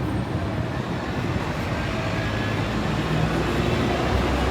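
Steady low rumble of city vehicle traffic.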